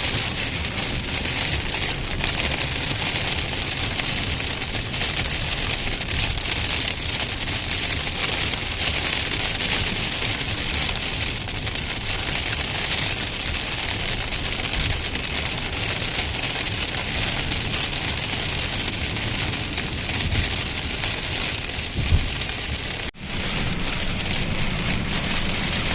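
Heavy rain pouring down in a dense, steady hiss. About 23 seconds in it breaks off for a moment and then resumes.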